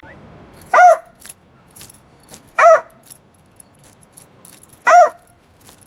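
A dog barking three times, evenly spaced about two seconds apart, each bark short with a rise and fall in pitch, with faint light clicks in between.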